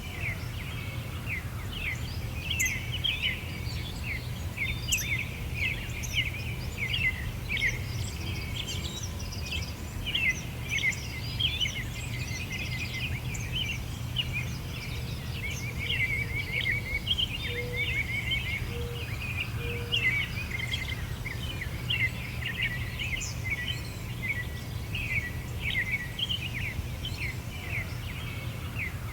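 Many small birds chirping and singing at once in a dense, continuous chorus of short, high chirps, over a steady low background rumble.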